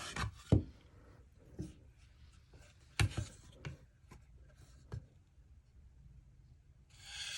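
Wooden boards being handled: sharp knocks about half a second and three seconds in, smaller ticks and rubbing between, and a longer scrape near the end.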